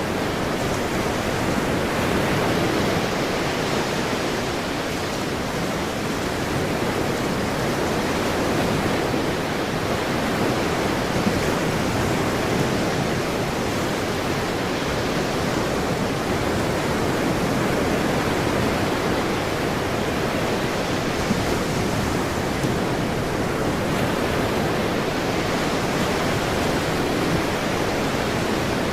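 Ocean waves breaking and washing on a shore, a steady wash of surf that swells and eases slowly.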